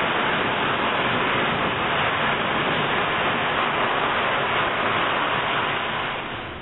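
Steam locomotive venting steam from its boiler: a loud, steady hiss that fades out about six seconds in.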